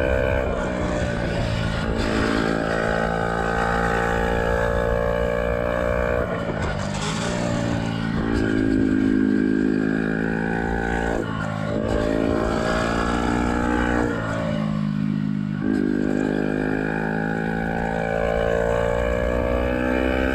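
Yamaha YZF-R125's single-cylinder four-stroke engine running through a Black Widow exhaust with the dB killer removed, ridden on the road. The engine pitch rises and drops several times as the rider opens and closes the throttle.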